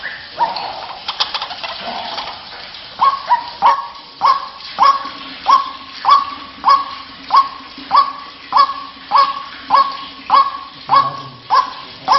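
White-breasted waterhen calling: after a rougher, uneven opening, a long run of evenly repeated short notes, about one and a half a second, each starting sharply and settling on one pitch.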